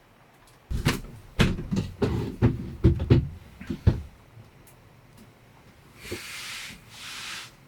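A quick run of knocks and thuds, like gear being handled or set down inside a small camper, then two short hissing swishes near the end.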